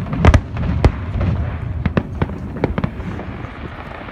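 A fireworks display: shells bursting in an irregular run of about ten sharp bangs, some in quick pairs, over a continuous low rumble.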